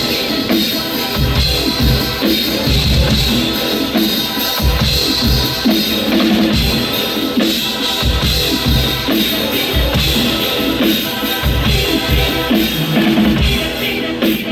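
A band playing music on a drum kit, with a steady beat of bass-drum thumps and snare hits under other instruments.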